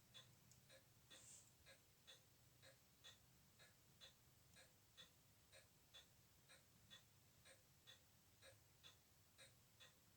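Faint, regular ticking of a mechanical watch movement, the Glashütte Spezimatic's escapement beating at about two ticks a second, over a low hum.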